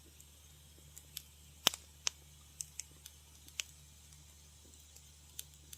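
Wood fire crackling in a fireplace: scattered, irregular sharp pops, the loudest about a second and a half in, over a faint steady low hum.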